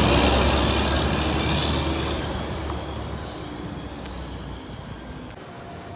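Heavy tractor-trailer truck running and fading away as it moves off, the engine sound dying down steadily. A faint high whine slowly falls in pitch and cuts off near the end.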